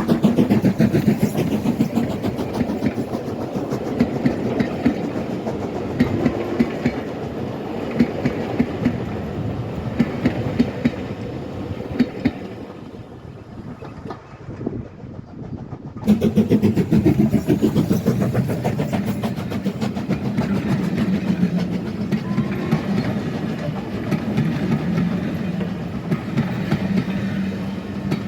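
Heritage train running along the line, its wheels clicking over the rail joints. The sound eases off for a few seconds, then comes back suddenly at full strength about sixteen seconds in.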